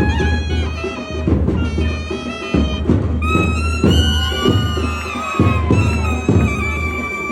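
Nadaswaram, a double-reed temple pipe, playing a sustained melody with bending, gliding notes over steady strokes of thavil drums.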